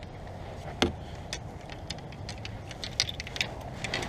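Scattered light knocks and clicks, the sharpest about a second in, over a steady low rumble.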